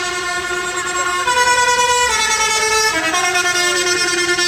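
Musical vehicle horn playing a tune of loud held notes that step up and down in pitch, with a fainter sliding wail behind it.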